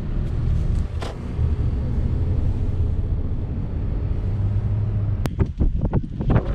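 Car engine running steadily, heard from inside the cabin as a low hum. A little after five seconds there is a sharp click, followed by irregular scuffs and knocks.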